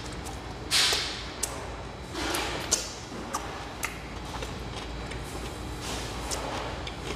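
A man chewing food close to a clip-on microphone, with a few small wet mouth clicks and a brief louder rush of breath about a second in, over steady room noise.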